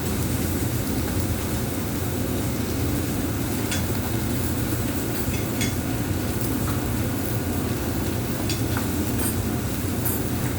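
Restaurant iron-griddle grilling: a steady low rumble throughout, with scattered small sharp pops and crackles at irregular moments.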